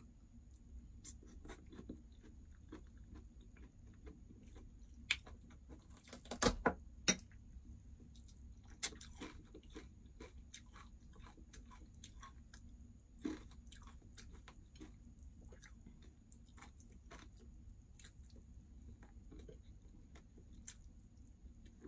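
A person eating: faint chewing and crunching of food close to the microphone, with scattered clicks and a few sharper clinks of a spoon against the dishes.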